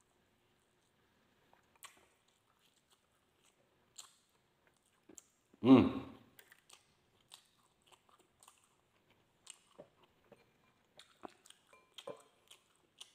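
Close-up chewing of grilled street-food barbecue, isaw (skewered chicken intestine): soft scattered mouth clicks and smacks. A short 'mmm' from the eater about six seconds in is the loudest sound.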